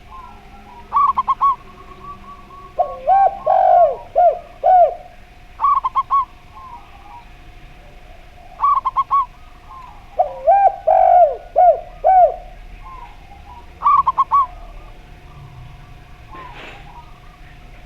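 Zebra dove and spotted dove cooing in turn: short clusters of three or four quick, higher coos alternate with longer phrases of lower, hooked coos. A faint steady tone runs beneath them.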